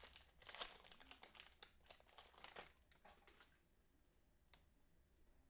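Plastic cellophane wrapping of trading card packs crinkling for about three seconds, then dying away, with a single faint click near the end.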